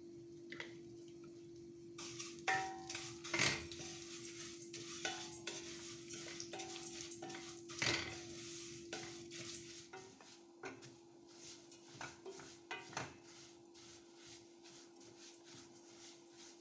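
Metal utensils clinking and scraping against pots and dishes, busiest in the first half and sparser later, over a steady low hum.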